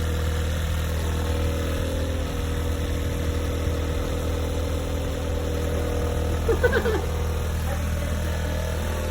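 A motor running steadily with a loud low hum, with a brief squeak about six and a half seconds in.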